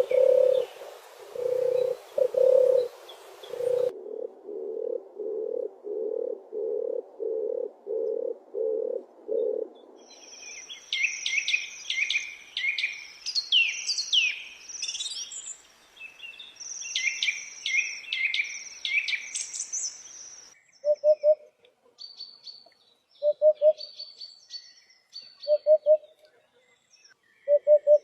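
Several bird recordings joined one after another. First comes a run of low, evenly repeated notes, about one and a half a second. Then a songbird sings fast, varied high phrases, and near the end there are sparse high chirps with short low calls between them.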